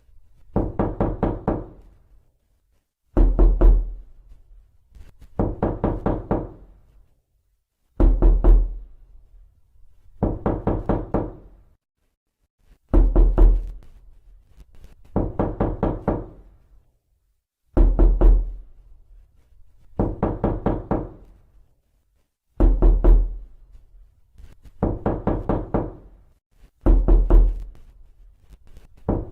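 Knocking on a door, in a steady repeating loop. A burst of several quick raps comes about every two and a half seconds, a loud, sharp burst alternating with a softer run of about five knocks.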